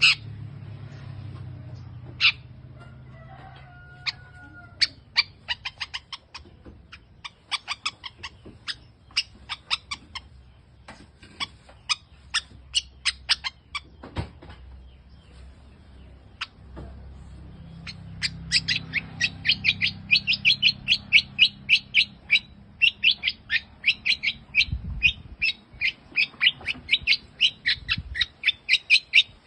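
Long-tailed shrike (cendet) calling in short, sharp chirps, scattered at first, then a fast, even run of several notes a second in the last third.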